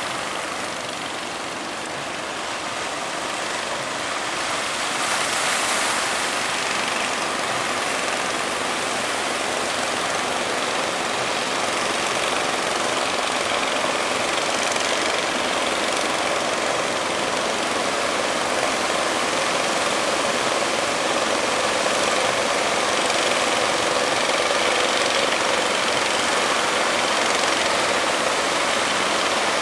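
Steady rush of surf breaking at a river mouth, with fishing boats' outboard motors running underneath.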